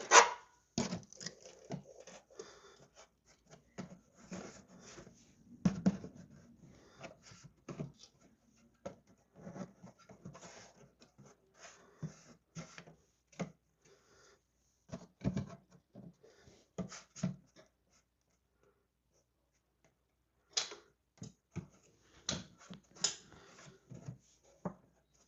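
Cardboard template being handled, bent and test-fitted against a car body: irregular light taps, rustles and scrapes, with a sharp knock at the very start and a couple of seconds of quiet late on.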